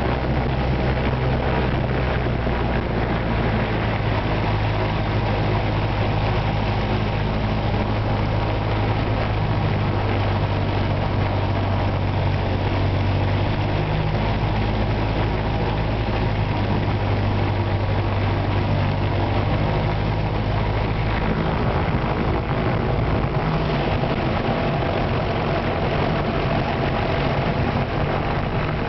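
Single-engine light aircraft's piston engine and propeller running with a steady low drone; about three-quarters of the way through, the even low hum gives way to a rougher, less even sound.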